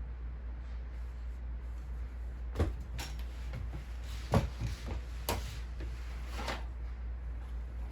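Household items being handled during cleaning: about five sharp knocks and clacks, like a cupboard door or drawer and objects being set down, in the middle few seconds, over a steady low hum.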